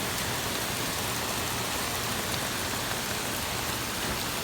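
Torrential rain pouring steadily, an even hiss of heavy rain hitting the ground.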